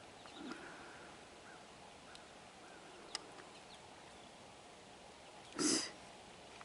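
Quiet outdoor ambience with faint, scattered bird chirps. Near the end comes one short, loud, harsh sound.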